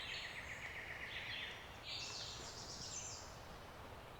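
Small songbirds singing in the woods: a rapid trill of repeated notes through the first second and a half, then a higher, faster song about two seconds in.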